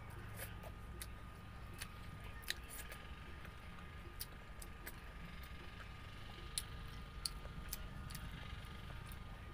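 Close-miked chewing of a mouthful of rice and pork: irregular wet mouth clicks and lip smacks, a dozen or so scattered through, over a steady low hum.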